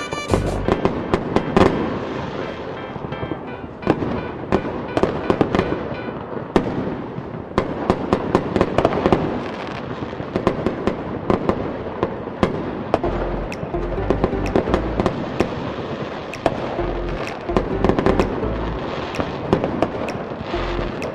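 Fireworks display: a dense run of bangs and crackling bursts, with music playing underneath.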